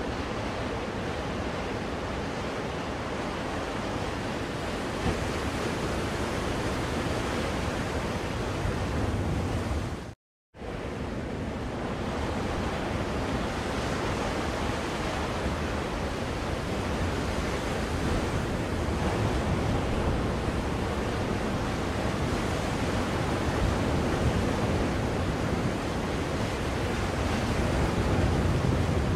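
Ocean waves washing on a shore, played as a steady white-noise recording for soothing a baby. About ten seconds in, the sound cuts out completely for about half a second, then resumes.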